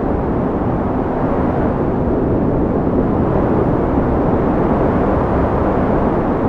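Wind blowing steadily: a low, even rushing noise.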